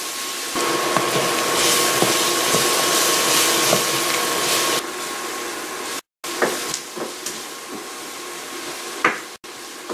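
Chopped onion and whole spices sizzling in hot oil in a frying pan as the onion sweats, with a wooden spoon stirring and scraping the pan now and then. The sizzle is louder for the first few seconds, breaks off briefly about six seconds in, then carries on more quietly.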